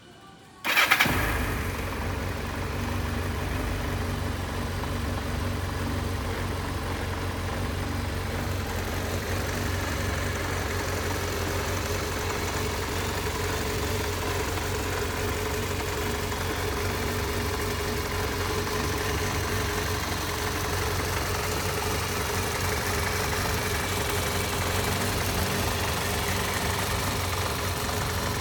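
Kawasaki Zephyr 750's air-cooled inline-four engine starting about half a second in, with a brief loud burst as it catches, then idling steadily. The engine has covered 102,832 km and is described as running in good condition thanks to regular maintenance.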